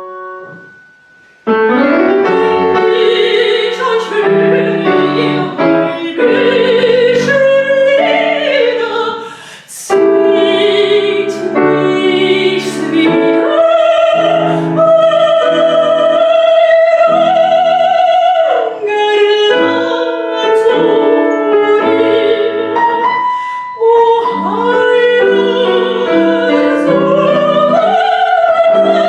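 An operatic soprano sings with wide vibrato over piano accompaniment. After a brief hush, the voice comes in about a second and a half in, with a short pause for breath near ten seconds.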